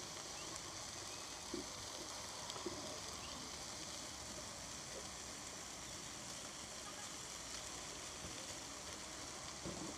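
Rice and chicken with vegetables sizzling steadily on a hot flat griddle plate, with a few light scrapes and taps of a metal spatula on the plate as the rice is turned.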